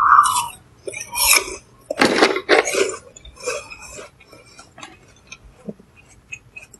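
A person chewing food, with irregular wet mouth noises and a few light clicks. The sounds are loudest in the first few seconds and grow sparse and faint toward the end.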